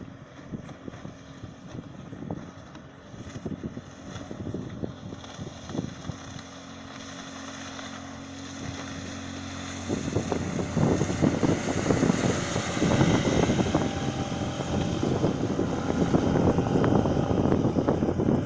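Small outboard motor driving a plastic boat on the water, running steadily and then growing much louder about ten seconds in as it is pushed harder, with wind buffeting the microphone and water rushing past the hull.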